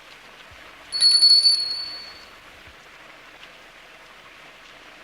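A shop-door bell rings once as the door opens, a bright clear ring that dies away over about a second, over the steady hiss of rain.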